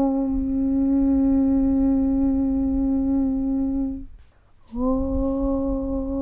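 A sustained 'Aum' drone hummed on one steady pitch, with a low rumble beneath it. It breaks off about four seconds in for a short pause, then starts again with a slight upward slide into the same pitch.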